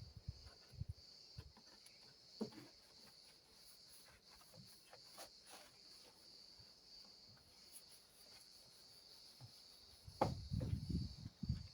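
Crickets chirring, a steady high-pitched drone. Near the end comes a short spell of louder low rubbing and knocking from hands scrubbing and handling the model airplane's body.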